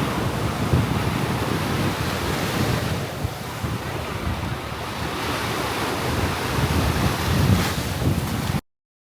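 Loud, steady rushing noise with wind buffeting the microphone. It eases a little midway and cuts off abruptly near the end.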